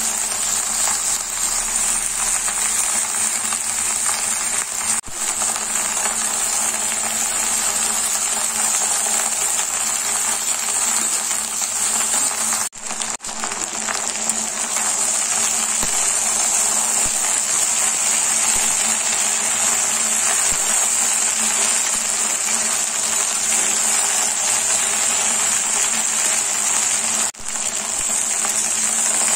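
Okra and sliced onions sizzling steadily in hot mustard oil in a steel pan on medium heat, an even high-pitched frying hiss that drops out briefly twice.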